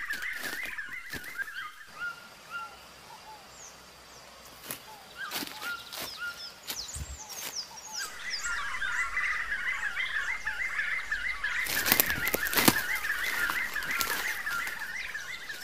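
Bird calls: a fast chattering run of repeated notes that breaks off about two seconds in and starts again about eight seconds in, with higher chirps in the gap. A few sharp snaps or knocks come through as well.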